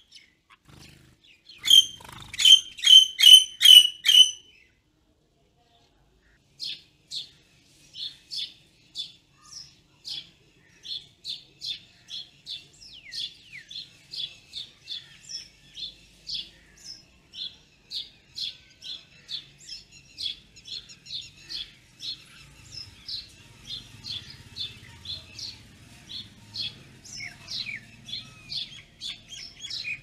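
Birds chirping. A loud run of about eight quick chirps comes near the start, then after a short pause a steady string of chirps, about two a second.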